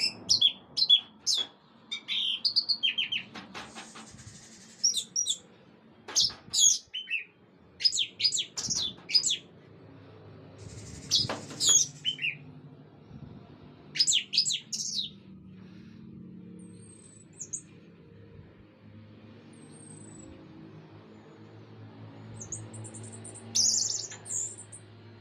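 Orange-headed thrush singing: quick clusters of high, varied whistled phrases with pauses between them, thinning out in the middle and picking up again near the end. Two brief hissing noises come in among the song, a few seconds in and about halfway through.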